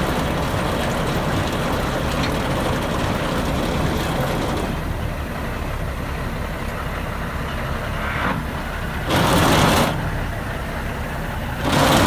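Heavy Ford truck's diesel engine idling with a steady rumble, with two loud bursts of hissing air near the end.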